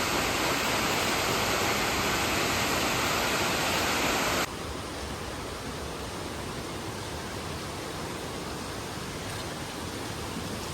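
Waterfall water rushing steadily. About four and a half seconds in it drops suddenly to a quieter rush.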